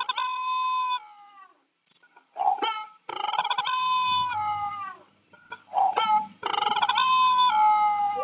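A bird giving three long drawn-out calls, each held on one pitch and then dropping away at the end.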